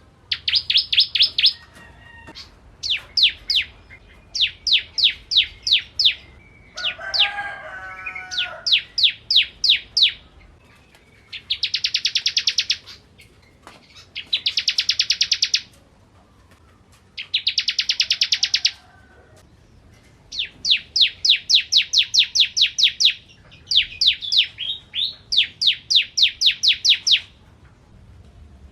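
Bar-winged prinia (ciblek) singing: bursts of rapid, high-pitched trilled notes, each about a second long, repeated with short pauses between. Some bursts are denser and buzzier. Around seven seconds in comes a lower-pitched chattering call.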